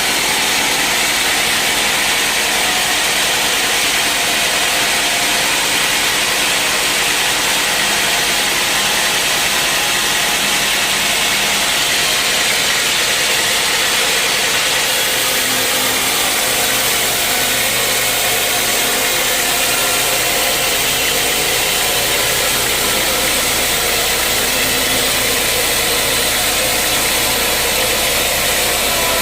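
Sawmill machinery running steadily, a loud even noise. About halfway through, a low hum joins in.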